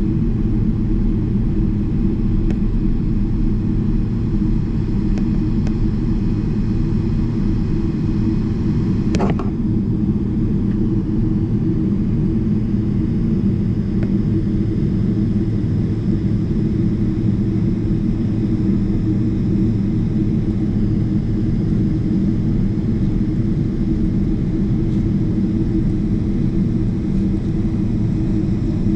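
Steady low rumble inside the cabin of a Boeing 777-300ER taxiing: its GE90 engines at taxi power and the wheels rolling, with a brief sharp sound about nine seconds in.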